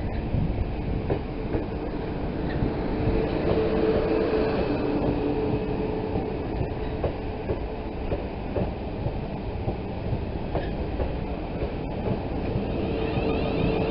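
South West Trains Class 450 Desiro electric multiple unit running into the platform: a steady rumble with wheel clatter over the rails, and a steady electric whine for a few seconds partway through.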